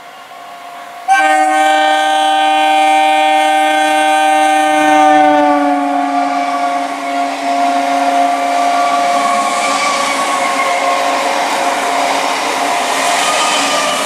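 An EMU local train's horn sounds one long blast that starts abruptly about a second in. Its pitch drops as the train passes, and the horn fades under the steady rumble and clatter of the electric multiple unit's coaches rolling by close at hand.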